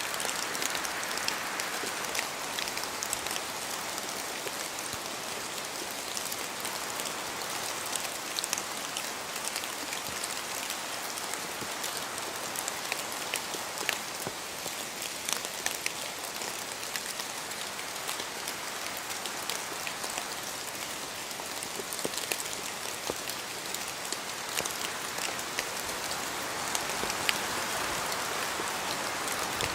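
Steady rain falling in a forest, with many separate drops striking near at hand, some of them louder, as water falls from the trees. Wind swells a little near the start and again near the end.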